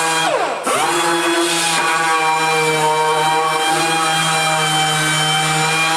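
Power sander running on 80-grit abrasive over a welded steel sill, its motor giving a steady whine. About half a second in the pitch dips sharply and recovers as the tool is loaded against the metal or eased off.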